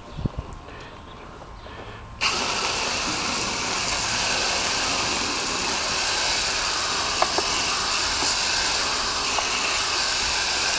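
A few light knocks, then about two seconds in a steady hissing spray starts suddenly and keeps going: a spray nozzle spraying an air conditioner coil during a coil cleaning.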